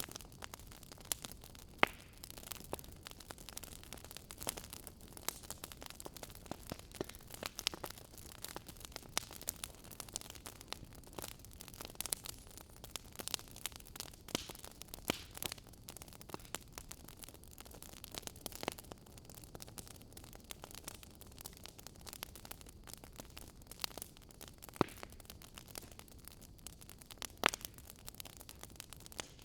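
Wood fire crackling in a fireplace: a soft steady hiss under frequent sharp pops and snaps at irregular intervals, with a few louder pops, one about two seconds in and two near the end.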